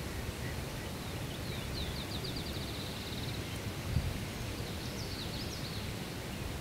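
A small songbird singing: a fast trill of about a dozen quick, high repeated notes, then a shorter phrase of sliding notes, over a steady outdoor hiss. A soft thump about four seconds in.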